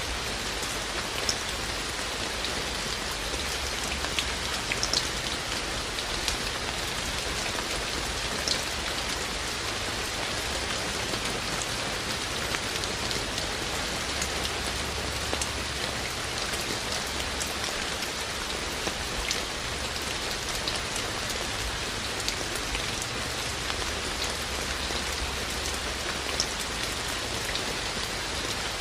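Steady rain falling, an even hiss with scattered close drops ticking sharply on a surface.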